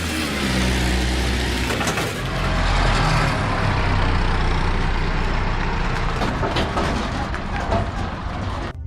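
Mercury electronic-fuel-injected outboard motor starting and running, its pitch rising over the first second and its sound swelling about two seconds in before slowly easing off. The motor is one that dies whenever it is throttled up from idle, which the owner takes for a too-lean fuel-air mixture.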